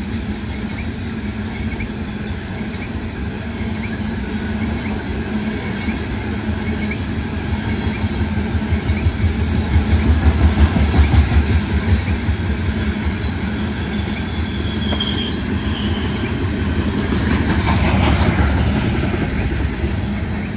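Loaded coal hopper cars of a freight train rolling past close by: a steady rumble of steel wheels on the rails. About halfway through it swells with a rapid, rhythmic clatter, and a few seconds later there is a brief high wheel squeal.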